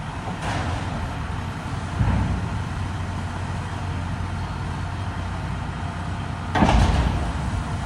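Heavy equipment's diesel engine running steadily under load, with a short thud about two seconds in and a louder heavy crash near the end.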